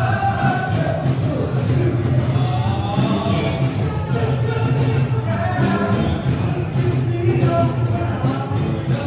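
Live band playing a song, with singing over a steady drum beat.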